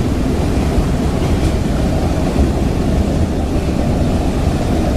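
Freight cars of a Florida East Coast freight train rolling past close by: a loud, steady rumble of steel wheels on rail.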